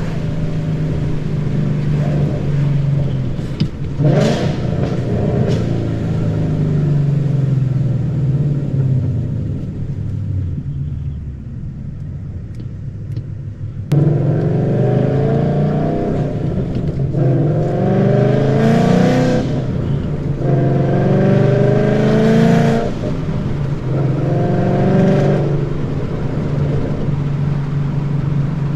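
Ford Mustang GT's 5.0 V8 running through long-tube headers and a Roush exhaust while driving. It eases off to a quieter cruise near the middle, then comes back in sharply. After that come several rising pulls, each broken off briefly, as under hard acceleration through the gears.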